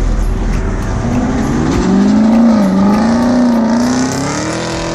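A car engine running loudly, its pitch climbing about a second in and then wavering up and down as the throttle changes.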